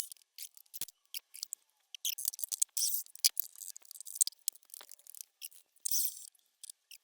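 With the milling machine stopped, irregular light clicks and short scratchy rustles of small metal tooling and parts being handled, as in a tool change to a small drill bit.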